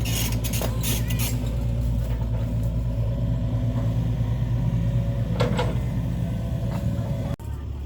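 A motor engine running steadily with a low hum, with a couple of short knocks over it. The sound cuts off abruptly near the end and a quieter, different background takes over.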